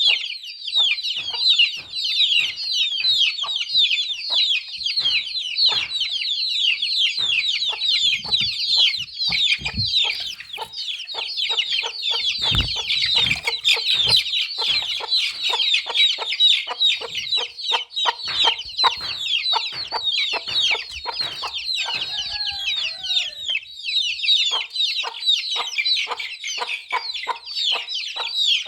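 A brood of chicks peeping, many overlapping short high chirps that slide downward, continuous, with scattered sharp taps among them.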